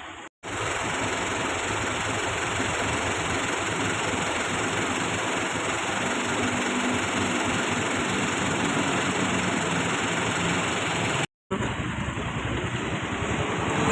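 Truck engine running steadily, cutting in just after the start and dropping out briefly about eleven seconds in.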